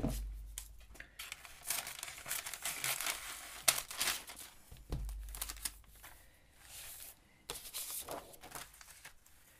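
Sheet of paper rustling and crinkling as it is handled and torn by hand, in irregular stretches, with a couple of dull thumps on the table.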